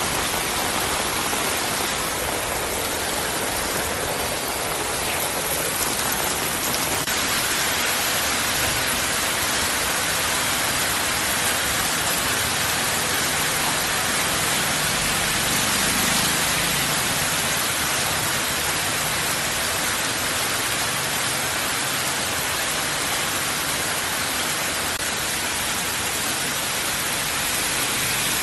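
Heavy monsoon rain pouring steadily on a flooded street, a dense even hiss of rain on water and pavement. About halfway through, a vehicle passing through the water swells briefly under the rain.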